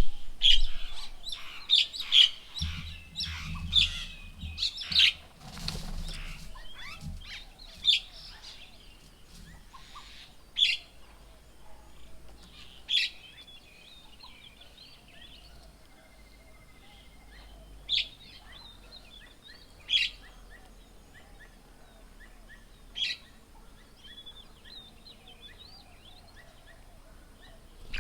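Wild birds chirping and calling: a busy run of high chirps over the first several seconds, then single sharp calls every few seconds.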